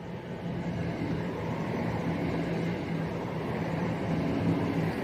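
CrossCountry Class 170 Turbostar diesel multiple unit passing, its diesel engine humming steadily under the running noise of the train, gradually getting louder.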